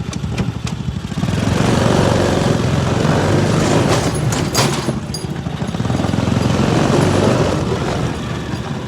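Lawn mower engine running with a pulsing low note. It grows louder about a second in, eases off around five seconds, swells again, then drops near the end. A few sharp ticks come in around four to five seconds in.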